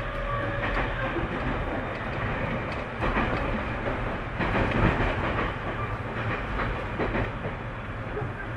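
Tobu 30000 series electric multiple unit heard from inside the car while running: a steady rumble of wheels on rail, with a few clacks over rail joints.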